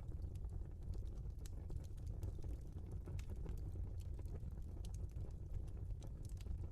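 Logs burning in a fireplace: irregular sharp crackles and pops over a low, steady rumble of the flames.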